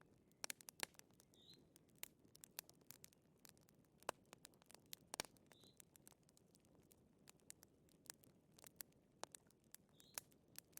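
Wood fire crackling softly, with irregular sharp pops and snaps over a low hiss.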